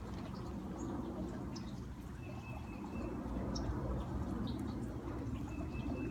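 Backyard fountain's water running steadily, with birds calling over it. A thin, steady high whistle is held for just under a second about two seconds in and again near the end, among short high chirps.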